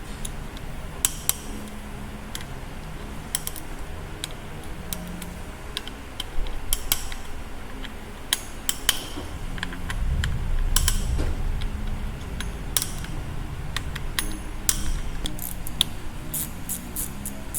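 Irregular sharp metallic clicks and clinks of hand tools and loose parts being handled while a BMW S1000RR engine is dismantled, with a low rumbling handling noise about ten seconds in.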